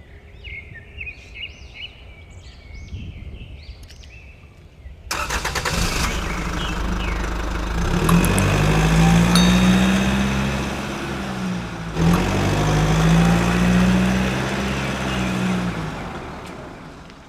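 Faint bird chirps, then about five seconds in a vehicle engine starts up loud and revs up and down twice before fading away near the end.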